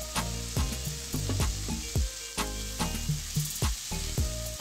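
Prawns, onions and tomatoes sizzling in hot oil in a thick-bottomed pan, with a spatula stirring them in repeated short scraping strokes.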